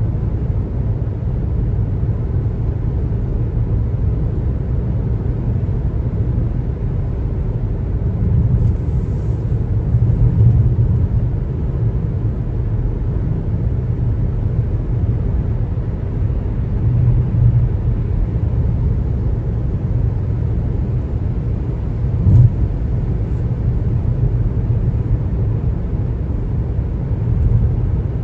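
A car driving, with a steady low rumble of road noise. A single short knock comes about 22 seconds in.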